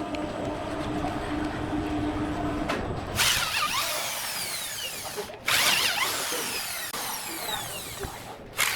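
A power saw cutting wood: the motor hums steadily, then from about three seconds in a loud, harsh cutting noise sets in, broken by two brief pauses.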